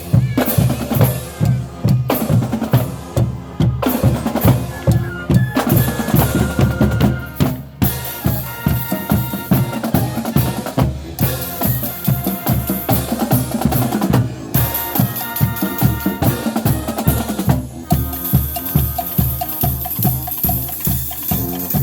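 Marching band drumline playing a cadence: steady, rapid bass-drum and snare strokes. From about eight seconds in, short pitched notes join the drums.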